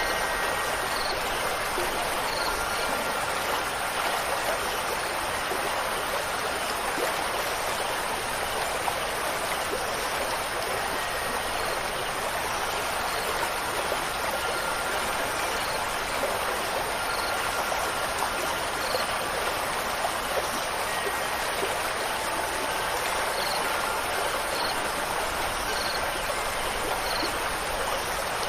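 Steady rush of running water from a stream, even throughout, with a few faint wind-chime tones near the start and again past the middle.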